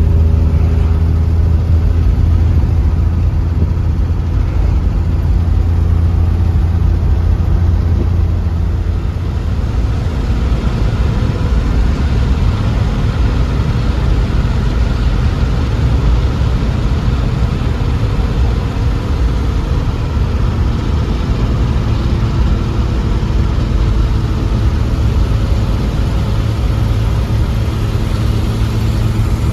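A car engine running steadily, a low drone with an even rush of noise over it; the drone shifts slightly about ten seconds in.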